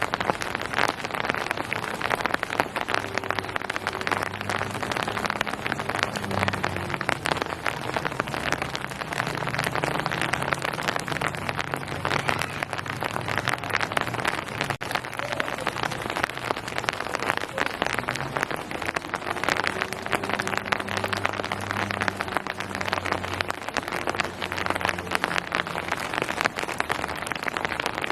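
Steady rain pattering on surfaces, a dense hiss of many small drop impacts. A faint low hum comes and goes underneath.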